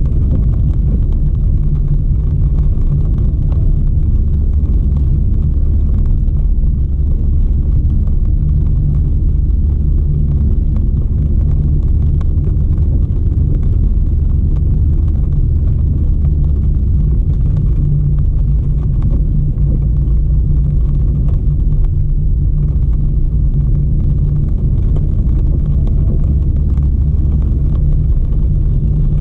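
Steady low rumble of a car on the move, with no clear rain hiss above it.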